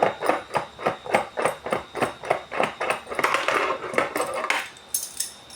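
Metal tool clicking rapidly and evenly, about four or five clicks a second, as the three-jaw puller on a washing machine's pulsator is loosened. About three seconds in it turns into a rougher metallic rattling, with a couple of separate clicks near the end.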